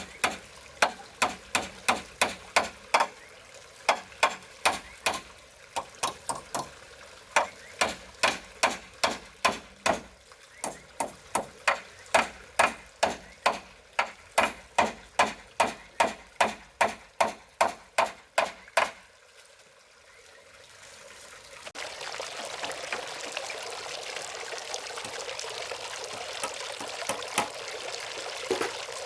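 Rapid, regular strikes on wood, about two to three a second with brief breaks, stopping about two-thirds of the way through. After a short lull, a steady hiss like running or pouring water sets in.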